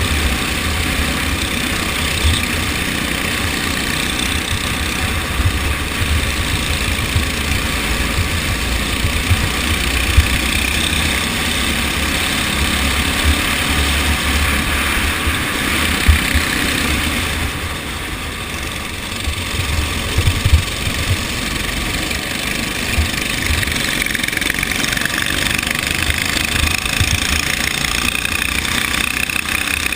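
TAG racing kart's two-stroke engine running through a race, with a heavy low rumble underneath; it eases off briefly a little past the middle, then picks up again.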